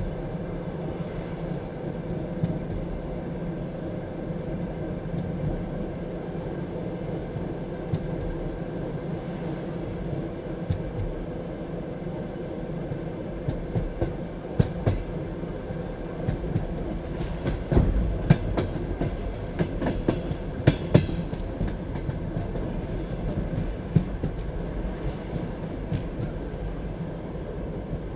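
Passenger railway carriage running along the track, heard from inside the carriage: a steady low rumble with wheels knocking over rail joints, and a cluster of sharper knocks about two thirds of the way through.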